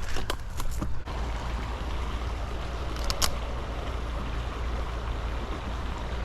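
Steady rush of creek water over a low rumble, with a few short knocks in the first second and one brief sharp sound about three seconds in.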